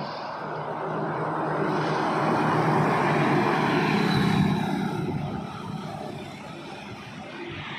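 A truck passing by on a highway: engine and tyre noise swelling to a peak about four seconds in, then fading away.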